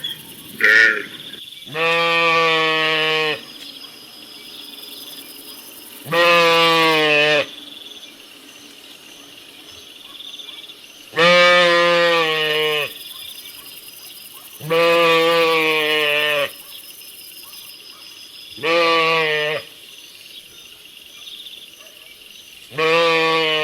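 Sheep bleating again and again: about seven bleats, each a steady call of a second or so, a few seconds apart.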